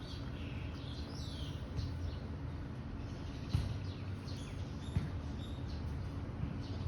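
Small birds chirping: short high calls, several sweeping down in pitch, over a steady low rumble, with two sharp clicks partway through.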